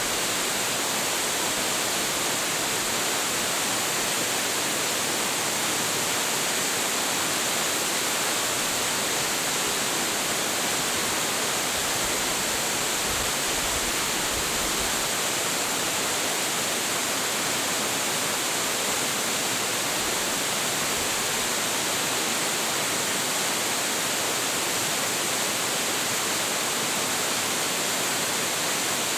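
A large waterfall crashing down, a steady, full rush of falling water that stays even throughout, with most of its energy in the hiss at the top.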